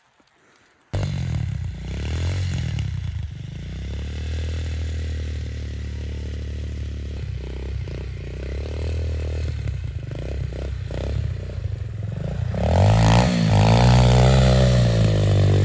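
A small off-road vehicle engine comes in abruptly about a second in and runs steadily, with some scraping and clattering. Near the end it revs up and back down, louder.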